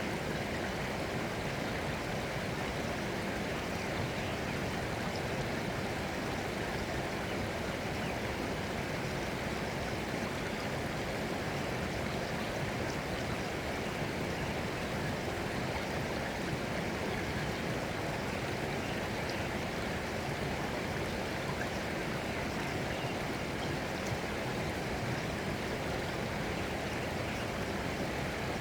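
Flowing water running steadily, an even rush with no pauses or changes.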